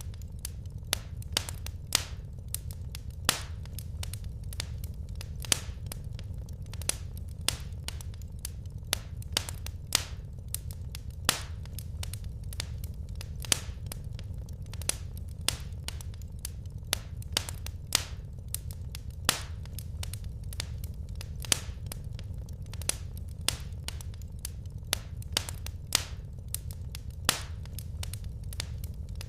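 Wood fire burning in a fireplace: sharp, irregular crackles and pops of the burning logs, about two a second, over a steady low rumble of the flames.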